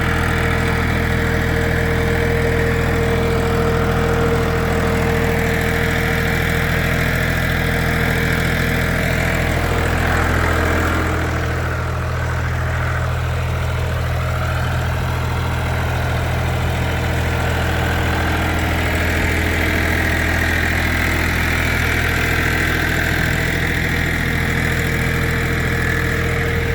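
Shifeng SF244CL compact tractor's diesel engine running steadily while it drives a rotary tiller through a field. The level and engine note dip slightly about eleven seconds in. A steady high whine sits over it for the first few seconds and returns near the end.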